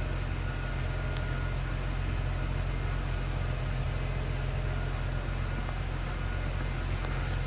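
2008 Mercedes E350's 3.5-litre V6 engine idling steadily, a low, even rumble.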